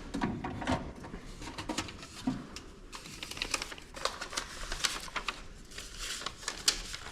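Rummaging through paperwork: a run of light, irregular clicks and rustles as papers and small items are handled.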